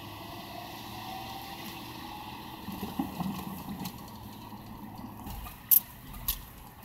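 A car driving on a snow- and slush-covered road: steady tyre and road noise, with two sharp knocks about half a second apart near the end.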